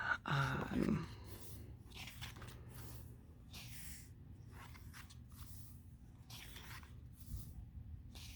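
Pages of a sticker book being turned one after another, a dry papery rustle roughly every half second, about a dozen times. A brief murmured voice comes in the first second.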